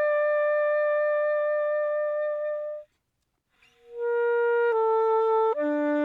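Selmer Paris Jubilee Series III alto saxophone playing unaccompanied and without effects. A long held note with a steady vibrato breaks off a little before halfway. After a short silent pause, a slow phrase of notes steps downward.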